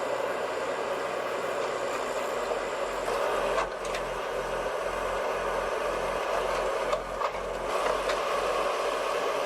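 Heavy truck engine running steadily, with two short dips in the sound.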